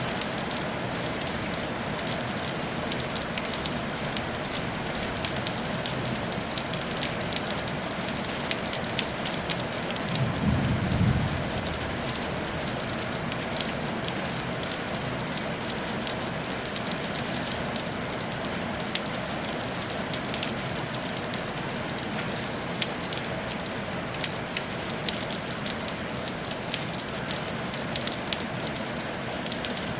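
Steady rain falling on a tile roof: an even hiss of countless drops with sharper individual drop ticks. About ten seconds in, a brief low rumble swells up for a second or so.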